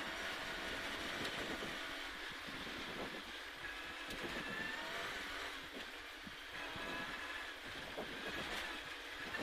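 Toyota Corolla KE25's four-cylinder engine driven hard along a straight, heard from inside the cabin. Its pitch rises and falls through the revs over steady road noise.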